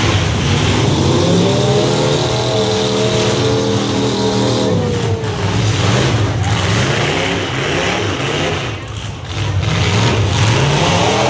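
Demolition derby cars' engines revving hard, several at once, their pitch rising and falling in repeated swoops.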